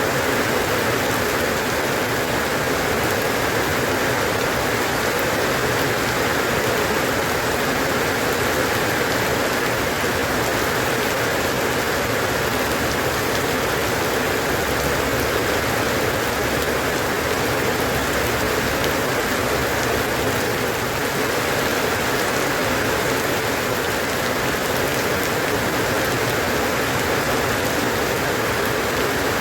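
Steady rain falling, an even continuous hiss of drops on a surface.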